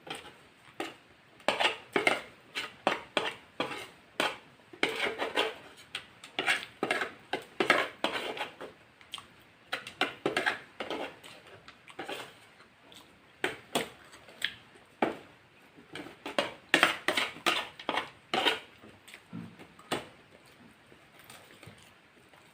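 A person eating a KFC fried chicken meal: irregular crisp crunches and clicks of chewing and utensil contact come in quick bursts, several a second, and thin out near the end.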